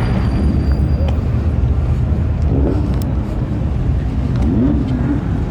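A vehicle engine running steadily nearby, a continuous low rumble, with faint voices in the background.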